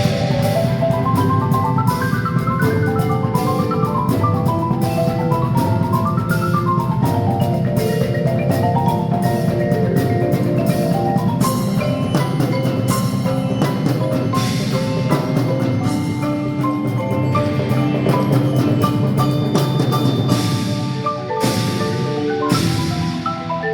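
Percussion ensemble playing, with mallet keyboards such as marimba in fast running note figures over a sustained low layer and sharp clicks throughout. The music breaks off briefly a few times near the end.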